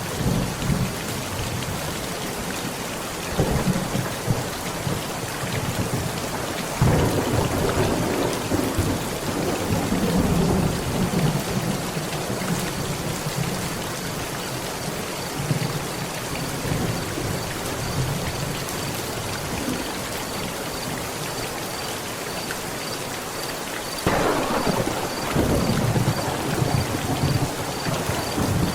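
Heavy rain falling steadily, with thunder rumbling through it: a short rumble about three seconds in, a longer, louder one from about seven seconds, and another near the end.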